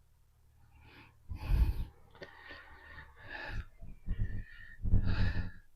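A man breathing out audibly close to the microphone, several short breaths and sighs about a second apart.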